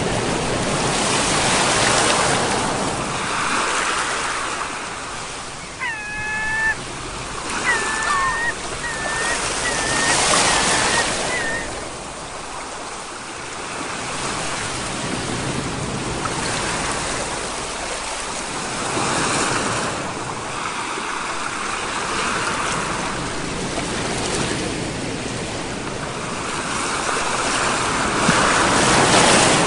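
Sea waves breaking and washing on the shore, swelling and falling back every few seconds. A few short, high pitched calls come about six to twelve seconds in.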